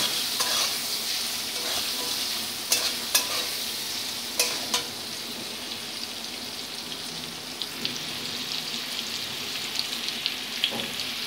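Diced potatoes sizzling as they fry in hot mustard oil in a metal kadai, with a steel spatula scraping and knocking against the pan several times in the first five seconds. After that the steady sizzle goes on alone with small crackles.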